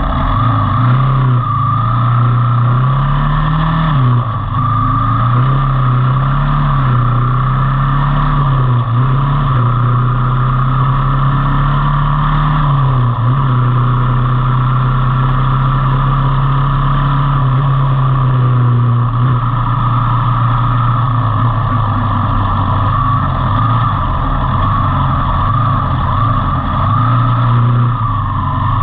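Motorcycle engine running under way, its pitch rising and falling with the throttle, loud and continuous.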